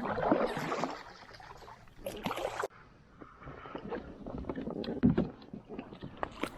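Kayak on the water: water splashing in the first second and again around two seconds in, then scattered small clicks and knocks against the hull, with a duller thump about five seconds in.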